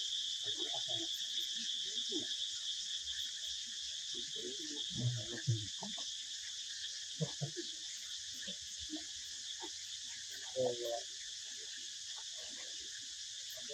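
A steady, high-pitched chorus of insects such as crickets, unbroken throughout, with short scattered low sounds beneath it.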